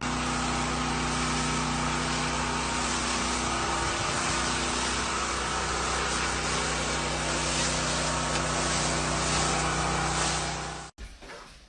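A motor running steadily, an even drone with a constant low hum, that cuts off abruptly near the end.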